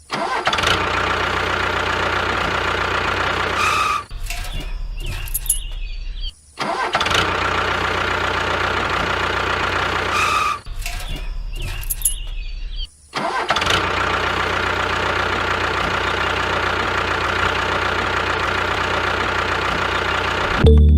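A miniature tractor's small engine running steadily, broken by a few abrupt cuts, with two short stretches of a slightly different engine note.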